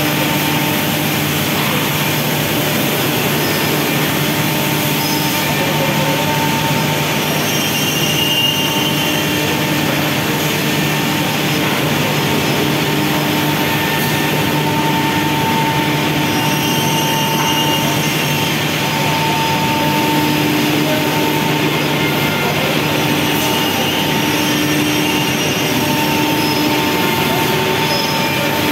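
Steady machine noise of a CNC factory floor: a constant low hum under a wash of noise, with higher whining tones that swell and fade every few seconds.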